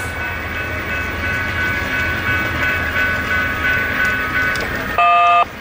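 Passenger train rumbling away down the track, with a level-crossing bell ringing about three times a second. Near the end a loud electronic tone cuts in abruptly.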